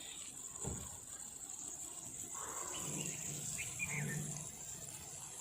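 Nature ambience: a steady high-pitched insect drone, with a few short animal calls and chirps in the second half.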